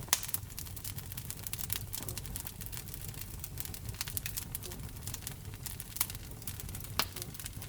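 Wood fire burning in a fireplace, crackling with frequent small pops over a low, steady rumble of flame. Sharper pops come just after the start, about six seconds in and about seven seconds in.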